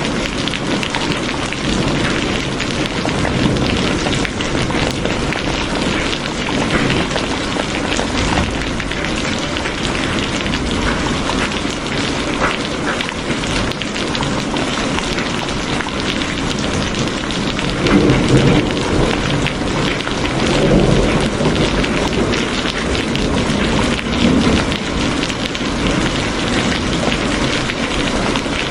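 Steady heavy rain falling in a dense patter, with low rumbles of thunder swelling up about two-thirds of the way through.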